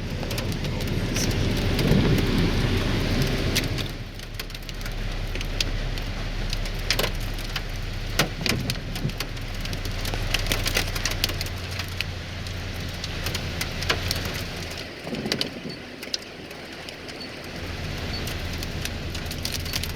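Heavy rain and hail pelting a vehicle: a dense steady downpour with many sharp individual hits scattered through it, over a low hum.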